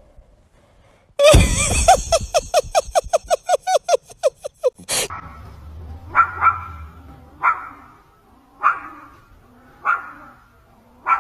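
A dog yapping: a fast run of high, pitched yelps that starts about a second in and slows down. After an abrupt change about halfway through come single short calls, roughly one a second.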